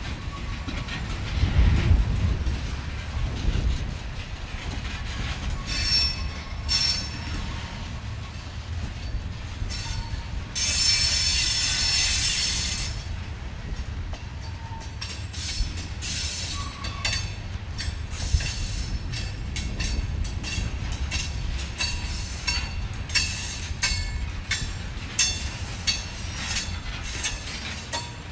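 Freight train of covered hopper cars rolling past: a steady low rumble, steel wheels clicking and clanking over the rail joints, and high wheel squeal from the flanges on the curve, loudest for a few seconds from about ten seconds in.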